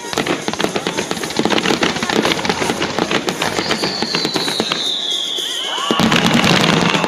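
Fireworks: a dense run of crackling pops. About four seconds in, a long whistle slides down in pitch, and near the end a louder volley of bangs comes with several shorter falling whistles.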